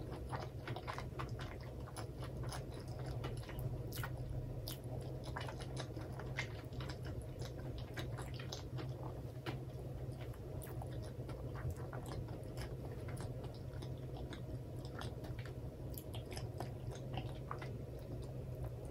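Close-miked chewing of crispy karaage (Japanese fried chicken), a steady stream of small crunchy clicks from the mouth.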